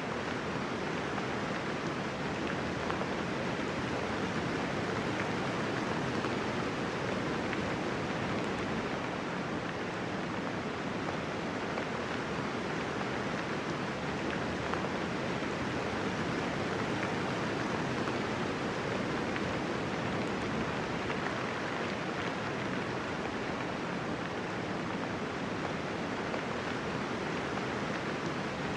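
Steady light rain falling, a soft even hiss of raindrops with no thunder.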